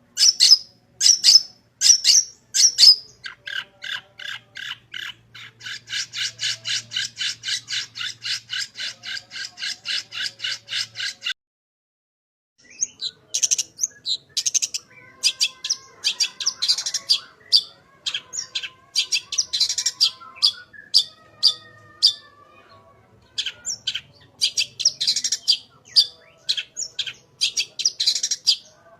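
Long-tailed shrike (cendet) singing, its song full of mimicked phrases: a few loud harsh calls, then a fast run of identical notes about four a second, a short break, then a varied stream of chirps.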